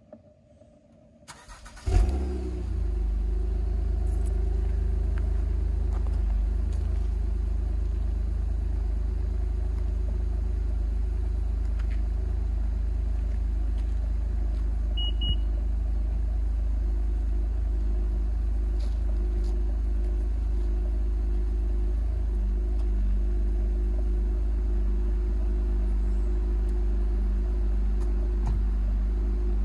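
2017 Honda Accord coupe's 3.5-litre V6 with a Borla axle-back exhaust, remote-started: it cranks and catches about two seconds in with a short flare of revs, then settles into a steady idle with a low exhaust drone. A brief double beep about halfway.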